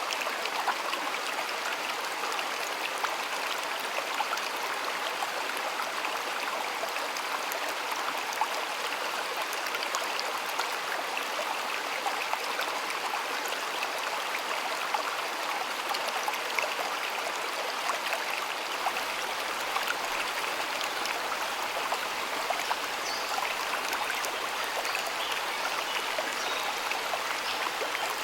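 A shallow stream of water flowing and trickling steadily, with small splashes scattered through it.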